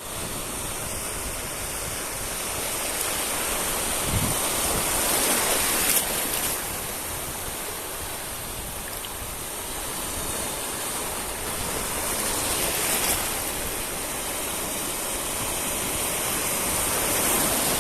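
Surf of the Arabian Sea breaking on a beach: a steady rush of waves that swells and falls, loudest about six seconds in, again around thirteen seconds, and near the end.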